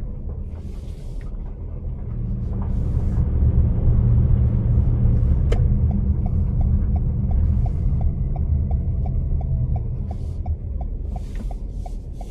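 Car driving, a steady low road and engine rumble heard from inside the vehicle. About halfway through, a light regular ticking of about three a second starts.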